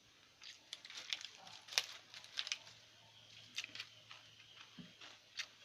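Close-up eating sounds: scattered short wet clicks and smacks of chewing rice and fried food, irregular and several a second at times.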